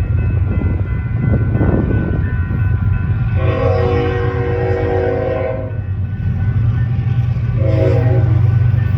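Union Pacific diesel locomotive's air horn sounding a long chord blast of a couple of seconds, then a short blast, the warning pattern for a road crossing, over the steady low rumble of the passing train.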